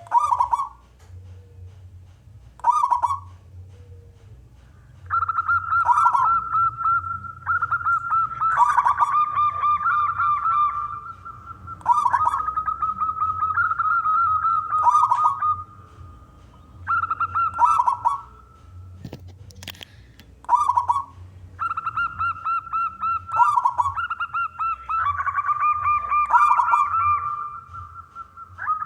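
Male zebra dove (perkutut) cooing: repeated high, rapidly pulsing coo phrases, a few short ones at first, then longer runs of several seconds each. A single sharp click sounds about two-thirds of the way through.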